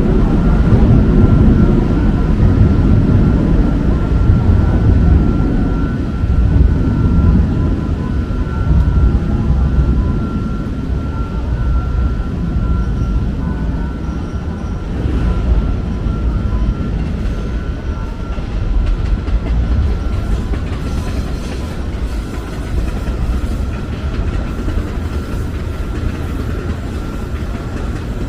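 A train running past, a heavy rumble that slowly fades, with a steady high tone above it.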